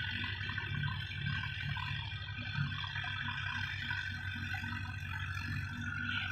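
Mahindra 415 tractor's diesel engine running steadily with a low, rapid firing beat.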